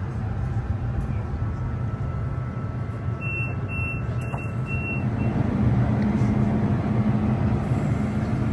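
Tram running, heard from inside the car: a steady low rumble that grows louder from about halfway through. About three seconds in, four short high beeps sound in a row.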